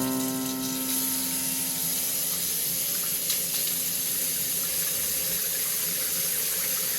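Steady running water, as from a tap, a constant rush throughout. The last notes of background music die away over the first second or two.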